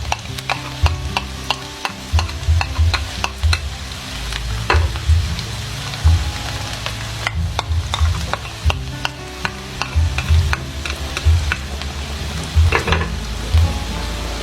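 Food frying in a pan while being stirred, with frequent sharp knocks of the utensil against the pan over the sizzle.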